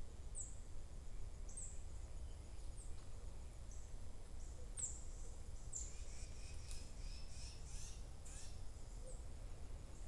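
A bird repeating a short, high chirp about once a second, with a few more short calls joining around the middle, over a steady low rumble.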